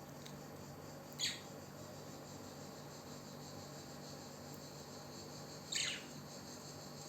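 Pet parrot giving two short, high chirps about four and a half seconds apart, the second slightly longer and falling in pitch.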